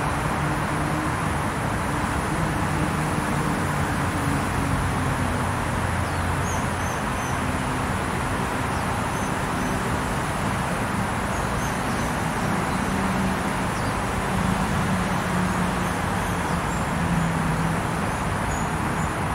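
Steady road-traffic rumble, with the low drone of vehicle engines slowly shifting in pitch. Faint high chirps of a small bird come through now and then in the second half.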